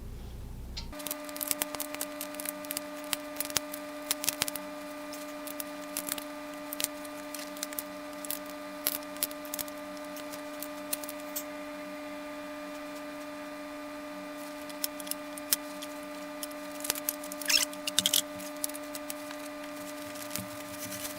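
Scattered small metallic clicks and taps as the exercise bike's seat screws are worked in and tightened, bunched in the first few seconds and again near the end, over a steady electrical hum.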